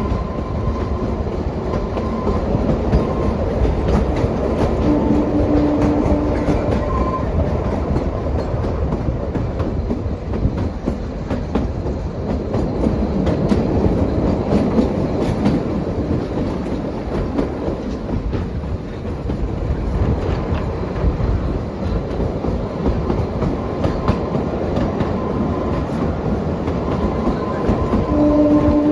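Kalka–Shimla narrow-gauge toy train running: a steady rumble with quick clickety-clack from the wheels over the rail joints.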